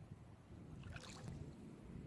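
Gentle sea waves lapping at the shore with a low, steady rumble, faint overall, and a brief higher hiss about a second in.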